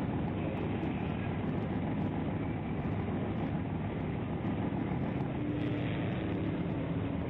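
Steady motor-vehicle engine and road noise, a low rumble that holds even throughout, with a faint hum coming in about two-thirds of the way through.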